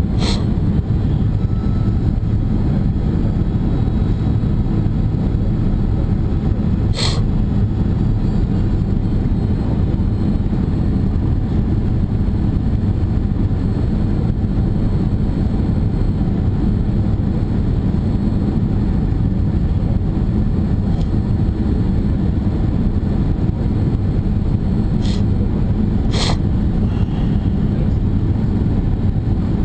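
Steady roar of engine and airflow noise inside a Boeing 767 airliner's cabin in flight on its landing approach, mostly deep rumble, with a few brief sharp clicks: one at the start, one about a quarter of the way in, and two close together near the end.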